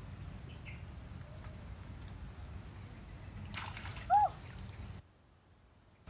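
A bird's single short, loud chirp, rising and falling in pitch, over a steady low outdoor background, with a brief rustle just before it. The sound cuts out in the last second.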